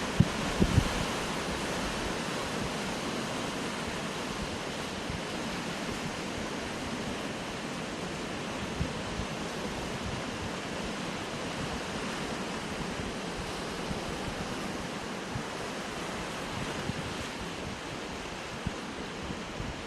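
Sea waves washing steadily against shoreline rocks, with wind buffeting the microphone; a couple of low thumps about a second in.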